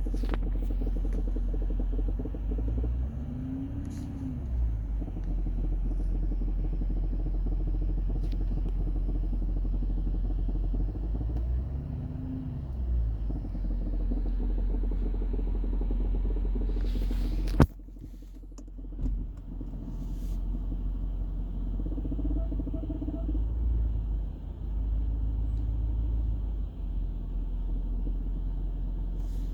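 2015 Range Rover Sport SDV8 4.4-litre V8 diesel idling with a knock from the front left of the lower engine bay. The owner cannot yet pin down the cause and suspects something loose behind the underbody shield. The engine is briefly revved twice, its pitch rising and falling, and a sharp click comes about two-thirds of the way through.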